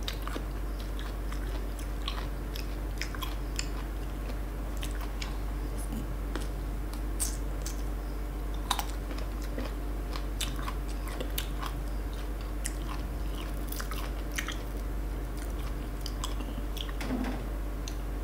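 Close-up crunching and chewing of crisp sour green mango slices, with scattered sharp bites and crunches throughout, over a steady low hum.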